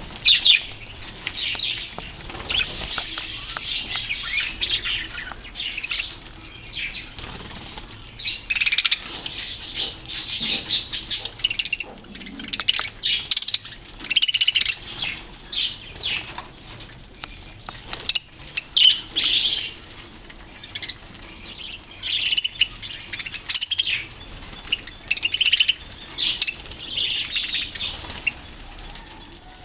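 Several budgerigars chattering and chirping without a break, in busy clusters of high, warbling calls, with some wing flapping.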